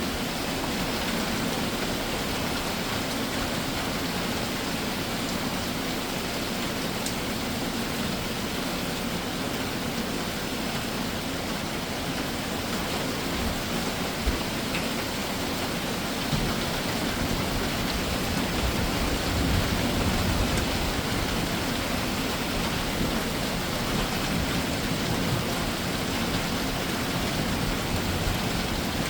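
Steady summer rain shower falling. A low rumble swells for a few seconds past the middle, and there is a single sharp tick a little before it.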